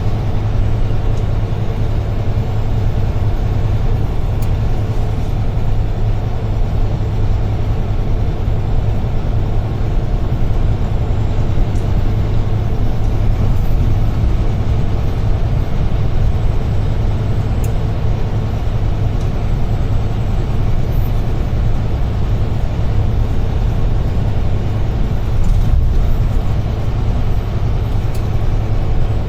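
UD Trucks Quon heavy truck driving, heard from inside the cab: a steady low diesel engine hum over an even road and tyre rumble.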